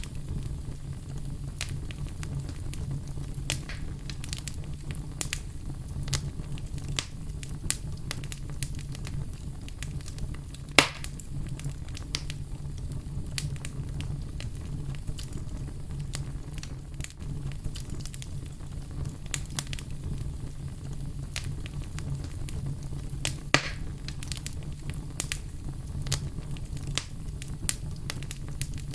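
Fire crackling steadily, a low rumble under frequent sharp pops and snaps. Two pops stand out louder, one about a third of the way through and one past the two-thirds mark.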